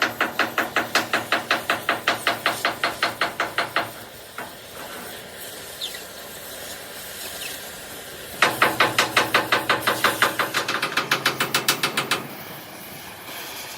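Rapid, even hammering on steel, about seven ringing blows a second. It comes in two runs: the first stops about four seconds in, and the second starts a few seconds later and stops about twelve seconds in.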